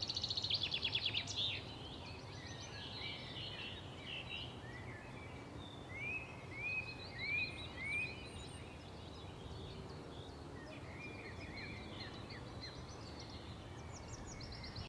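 Several wild birds singing: a rapid, loud trill of fast chirps in the first second or so, then scattered chirps and four rising, slurred whistles about halfway through, and another short trill near the end, over a faint steady background hum.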